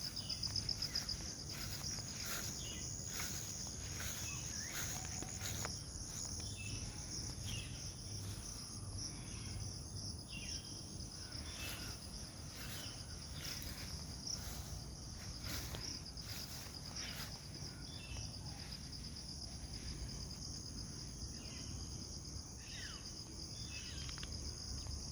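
Steady high-pitched trilling chorus of insects, cricket-like, with short bird chirps dropping in now and then.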